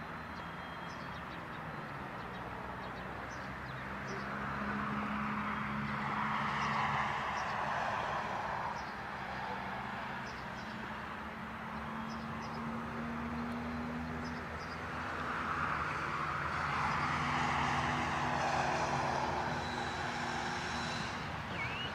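Metrorail electric multiple unit train running past: a steady low hum under rumbling wheel-and-rail noise that swells twice, about six and about seventeen seconds in.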